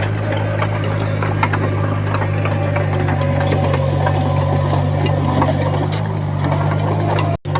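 Heavy earthmoving machine's diesel engine running steadily with a deep hum, with scattered clanks and rattles of metal and stone. The sound drops out for an instant near the end.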